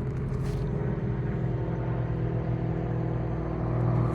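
Car driving at a steady pace: an even engine and road drone that holds the same pitch throughout.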